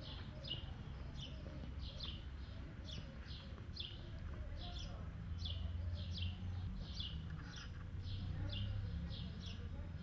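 A small bird chirping over and over, short falling chirps about two a second, over a low background rumble.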